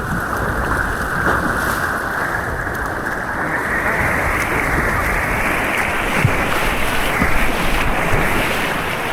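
Rushing white water heard from a kayak on an artificial white-water course: a steady noise of water, muffled at first and growing a little brighter.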